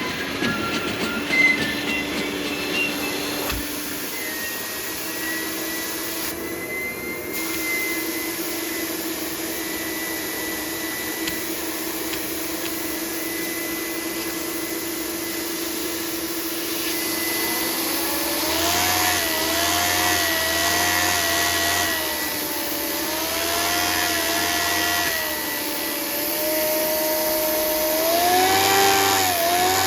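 Small model vacuum engine running steadily with a whirring tone. From a little over halfway in, its pitch wavers up and down and the sound gets somewhat louder.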